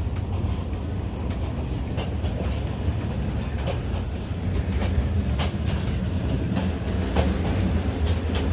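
Inside a moving passenger train carriage: the steady low rumble of the running train, with sharp clicks and knocks of the wheels and car body coming more often in the second half. It is a rough, shaky, noisy ride.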